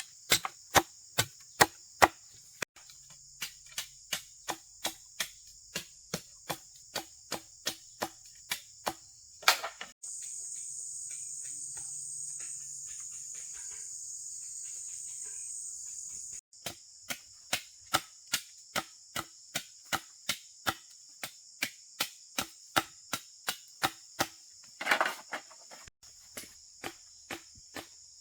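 Steady rhythmic knocks of a hand tool striking, about two a second, over a continuous high-pitched insect chorus. For about six seconds in the middle the knocks stop and only the insects are heard.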